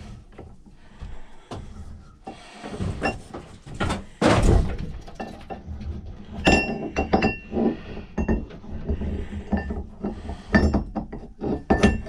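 Knocks, clanks and metallic clinks as a steel axe head is handled and set into a bench vise, with a heavy thump about four seconds in and a brief ringing clink about six and a half seconds in.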